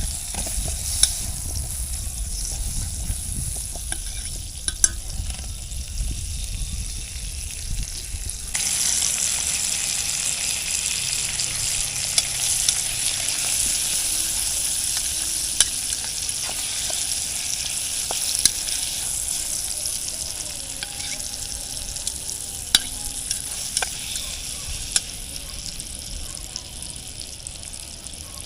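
Food sizzling as it fries in a pan, with occasional sharp clicks of a utensil against the pan. A low rumble under the sizzle stops about eight seconds in, the sizzle grows louder at that point, then slowly fades toward the end.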